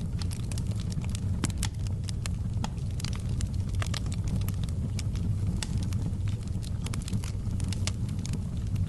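Wood fire in a fireplace crackling, with many sharp, irregular pops and snaps over a steady low rumble.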